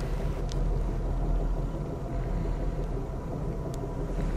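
Steady low rumble of the Auto Train rolling along the track, heard from inside a passenger roomette, with two faint clicks, one about half a second in and one near the end.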